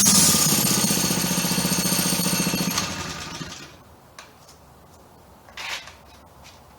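Minibike engine running with a fast, rattling pulse, then dying away about three seconds in. A short, brief noise follows about two seconds later.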